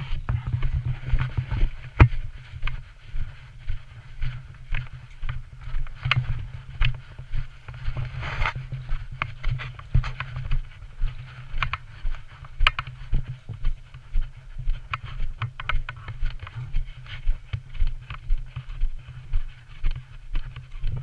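Footsteps of a person walking at a steady pace, a little under two steps a second, over a steady low rumble. A longer brushing rustle comes about eight seconds in.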